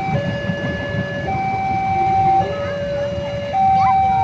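Two-tone electronic siren alternating between a higher and a lower note, each held about a second, over a low rumble.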